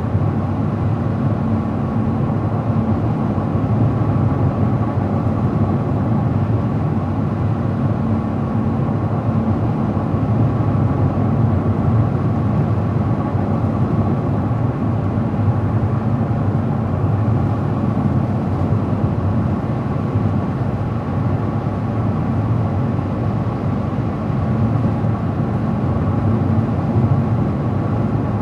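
A car driving steadily at road speed: a continuous rumble of tyre and road noise with a faint, even engine hum, heard from inside the car.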